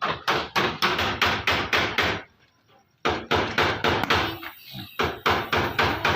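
Rapid hammering, about four or five blows a second, as a panel beater works car body metal. The blows stop for nearly a second midway, then start again.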